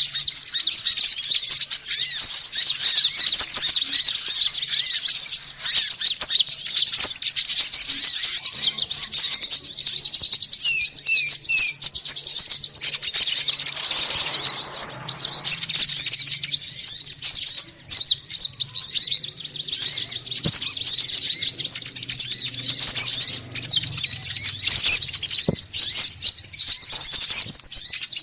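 A dense, busy chorus of small songbirds twittering and chattering non-stop in high-pitched rapid notes, with three short down-slurred calls about eleven seconds in. It is a bird-catcher's lure recording, played to draw small birds in.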